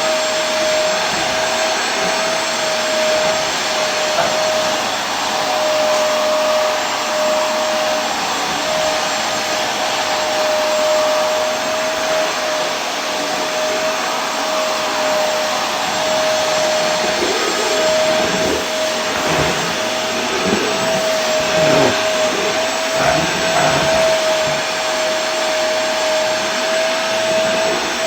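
Vacuum cleaner running steadily: an even rushing of air with a constant motor whine on one pitch, used as white noise for sleep.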